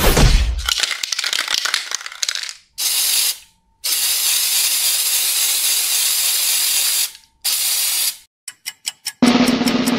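Aerosol spray-paint can: a thump, then a couple of seconds of rapid rattling like the can being shaken, then the hiss of spraying in three bursts, a short one, a long one of about three seconds and a short one. A quick run of clicks follows, and a drum roll starts near the end.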